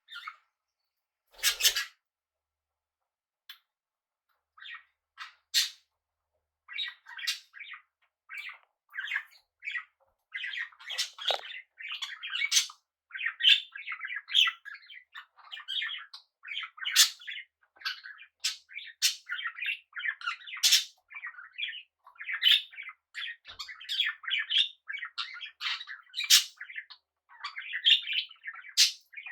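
Small pet parrots chirping and chattering. A single loud, sharp call comes near the start, then scattered chirps, which build about a third of the way through into continuous busy chatter.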